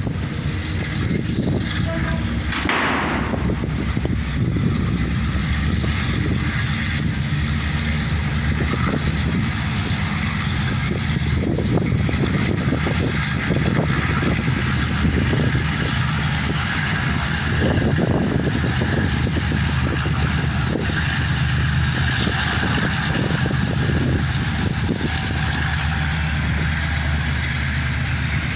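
Pair of EMD G12 diesel-electric locomotives, V12 two-stroke engines, running with a steady low drone as the train pulls in. A brief burst of noise comes about two and a half seconds in.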